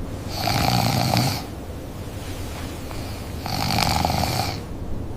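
Snoring: two long snores about three seconds apart, over a low steady rumble.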